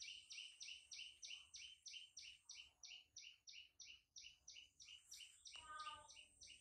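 Faint bird call: a high chirp repeated evenly, about three or four times a second, over a steady faint high hiss. A short, lower squeak comes about a second before the end.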